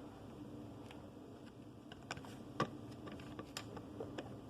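Faint, scattered small plastic clicks and taps from a Mega Construx figure and its toy pistol accessory being handled, about half a dozen over a few seconds, the sharpest about two and a half seconds in.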